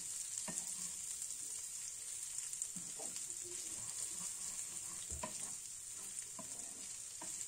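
Prawns sizzling in oil in an uncovered non-stick frying pan, a steady high hiss, while a wooden spatula stirs them, with a few light taps and scrapes of the spatula on the pan.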